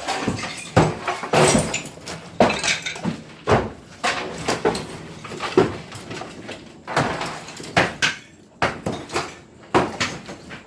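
Knocks, bangs and clatters of demolition cleanout work, debris being handled and thrown, coming at uneven spacing about once a second.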